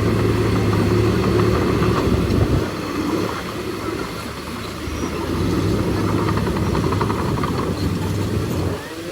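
Heavy diesel engine of an earthmoving machine running steadily, easing off for a few seconds around the middle and then picking up again.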